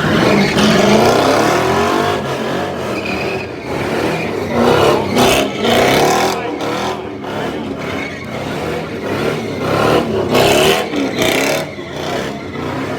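Car engine revving hard, its pitch rising and falling again and again, with louder surges about five seconds in and again near the end, as in a burnout or donuts.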